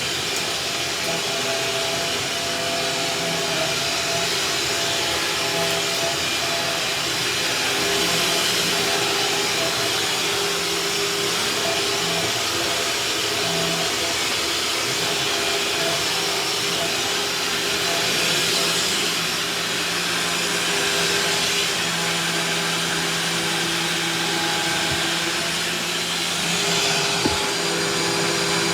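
Vacuum cleaner running steadily as it is worked over a floor, its motor holding a constant pitch, with one brief click near the end.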